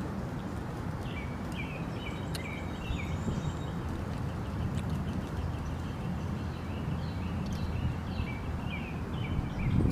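Small birds chirping in short, quick repeated calls, over a steady low rumble of outdoor background noise.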